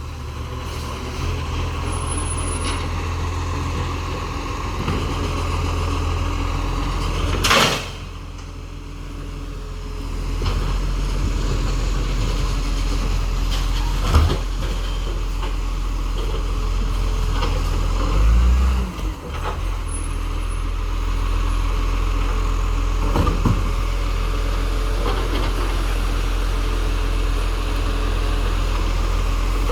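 Recycling truck's diesel engine running steadily, with a short loud hiss of air about seven seconds in, then the engine picking up again; a few sharp clunks follow later.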